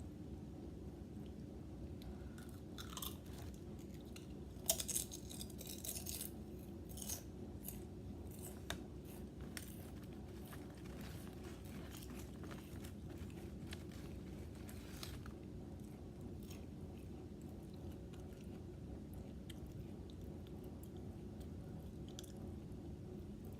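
Potato chips crunching and being chewed close to the microphone. The crunches come thickest early on and grow sparser later, over a steady low background hum.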